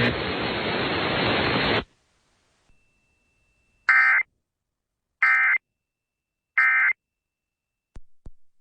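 Radio static hiss that cuts off about two seconds in, followed by three short, identical warbling bursts of Emergency Alert System digital data, a little over a second apart: the end-of-message code that closes the alert.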